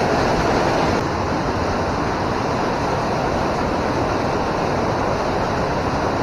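Steady rush of river water flowing and churning over rocks, dropping slightly in level about a second in.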